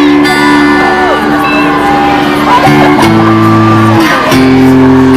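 Guitar strumming held chords that change about once a second, with shouts and cheers from a crowd over it.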